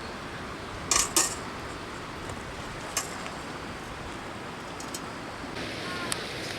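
Steady rush of river water with a few sharp clinks of hard objects knocked together: two close together about a second in, another near three seconds, and a light one near the end.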